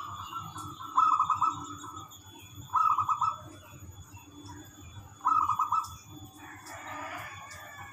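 Zebra dove (perkutut) cooing: three loud rolling coos about two seconds apart. A softer, scratchier sound follows near the end.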